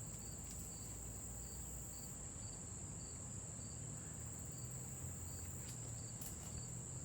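Crickets chirping: a steady high-pitched trill with a fainter short chirp repeating about twice a second, over a low background rumble and a few faint clicks.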